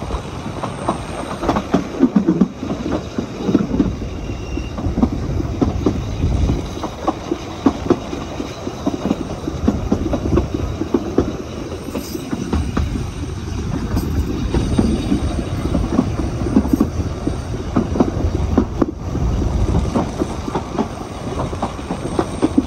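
Narrow-gauge train running along the line, heard from on board: a steady rumble of wheels on the rails with frequent clicks and rattles throughout.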